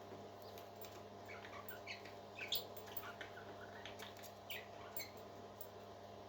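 Parrot chick giving a quick run of short, faint high peeps over a steady low hum.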